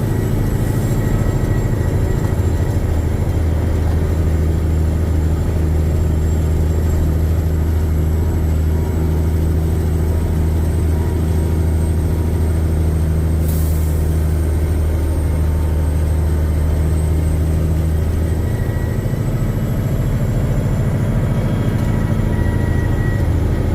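Cummins diesel engine of a 1984 Peterbilt 359 log truck running steadily under load, heard inside the cab: a continuous low drone that eases slightly for a few seconds about three-quarters of the way through.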